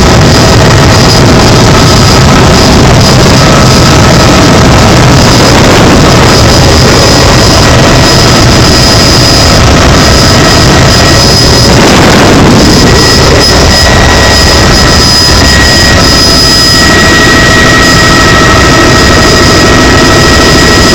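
Helicopter in flight, heard from inside the cabin: a loud, steady turbine-and-rotor noise with several high, steady whining tones over it.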